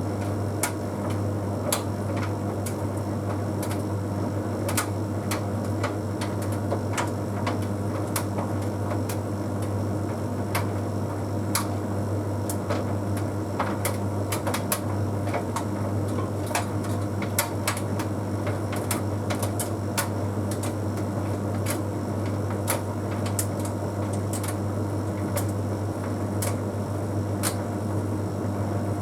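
Bosch Series 6 heat pump tumble dryer running mid-cycle: a steady low hum from the machine, with frequent irregular sharp clicks and taps throughout.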